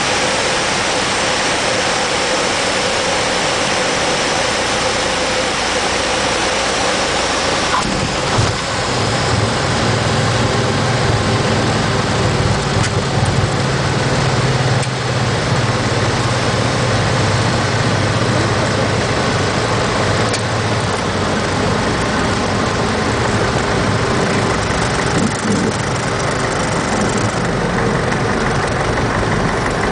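Cockpit sound of a Piper PA-28-140 on landing: its four-cylinder Lycoming O-320 engine drones under a steady rush of air. A deeper low drone comes in about a quarter of the way through and fades after the middle, and the airflow hiss eases near the end.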